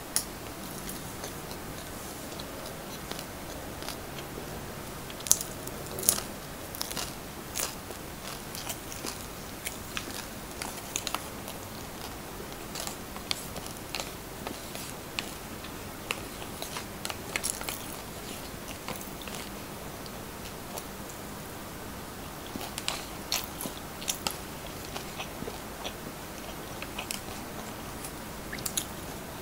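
Close-miked chewing and mouth sounds of someone eating siomai, with many scattered sharp clicks. The loudest clicks come about five and six seconds in and again in a cluster around twenty-three seconds in.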